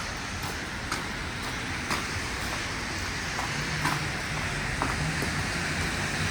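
Traffic on a wet city street: a steady hiss of tyres and engines, with footsteps ticking about twice a second. From about halfway through, a low steady engine hum joins in, as of a vehicle idling close by.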